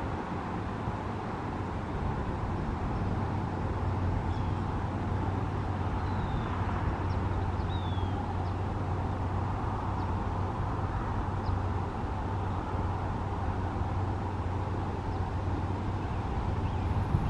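Steady background road traffic, with a few faint, short, downward-sliding bird chirps over it.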